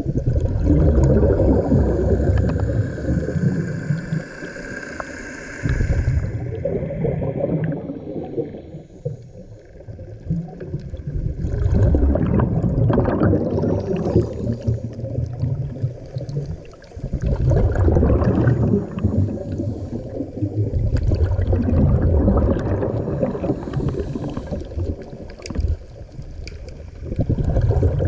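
Scuba diver breathing through a regulator underwater: low, bubbling bursts of exhaled air every four to six seconds, with quieter gaps between breaths.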